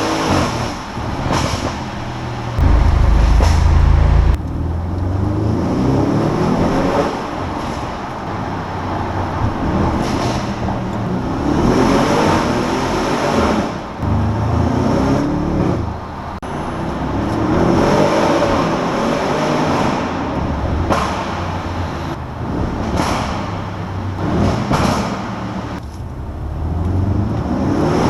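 Sports car engine and exhaust accelerating hard, the pitch climbing for a few seconds and then dropping at each gear change, several times over. A heavy low rumble about three seconds in is the loudest sound.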